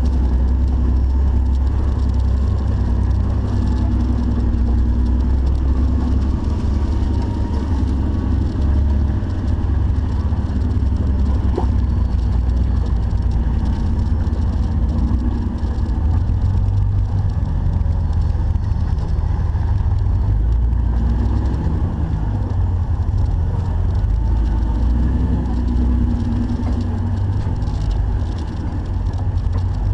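Off-road Jeep's engine running steadily at low revs, with a heavy, deep rumble and a faintly wavering engine note.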